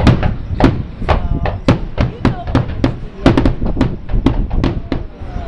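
Rapid barrage of fireworks bursts, several sharp bangs a second, with no break between them.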